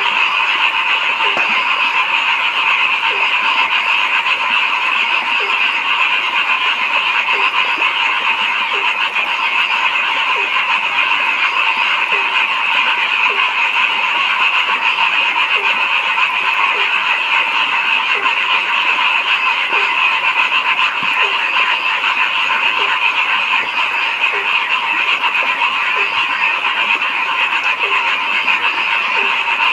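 Dense chorus of frogs calling steadily. Through it, one lower-pitched call repeats at an even pace, a little more than once a second.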